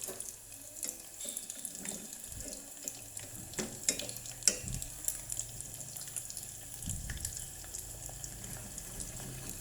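Battered shrimp deep-frying in hot oil: a steady sizzle full of small crackling pops, with a couple of sharper clicks around the middle.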